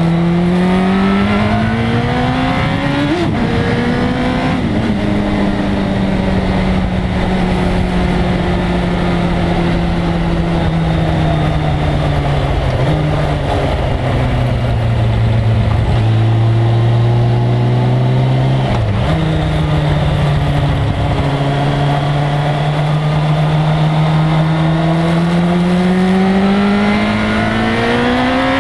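1997 Suzuki GSX-R1100's inline-four engine on track: it revs up with two quick upshifts in the first few seconds, falls in pitch as the throttle eases and a gear is dropped near the middle, then picks up again and climbs steadily under acceleration toward the end.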